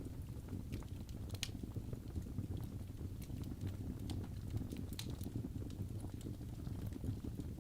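Wood fire burning in a fireplace: logs crackling with scattered sharp pops, a couple louder than the rest, over a steady low rumble of the flames.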